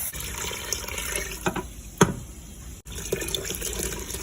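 Water running from a tap and filling a pot, with one sharp knock about two seconds in.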